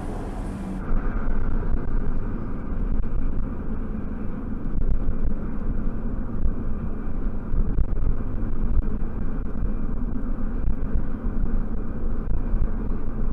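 A car driving: a steady low rumble of road and engine noise. The sound changes abruptly about a second in.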